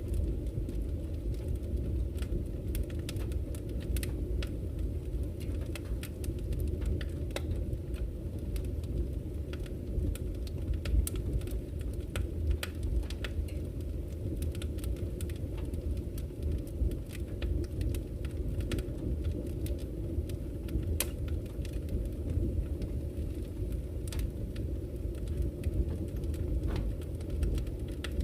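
Campfire crackling, with irregular sharp pops and snaps, over the steady low rush of a flowing river.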